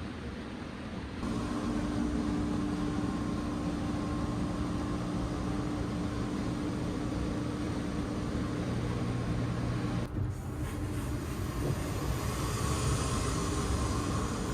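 Sleeper train running: a steady rumble of wheels and running gear with a low hum. It gets louder about a second in.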